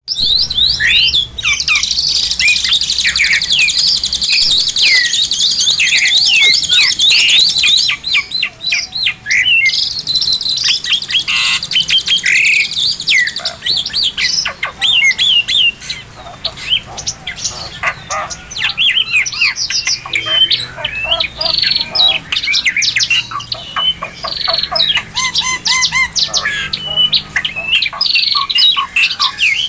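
Oriental magpie-robin (kacer) singing without pause: a long, varied stream of quick whistles, chirps and rapid trills. A faint low hum runs underneath.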